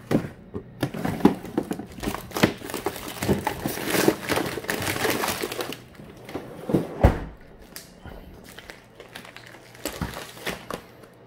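Plastic food packaging crinkling and rustling as it is handled, with small clicks and one louder thump about seven seconds in.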